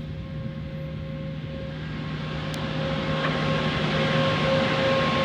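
Conveyor car wash tunnel equipment running: a steady motor hum with a steady tone over it, and a rush of air or spray that grows louder from about two seconds in.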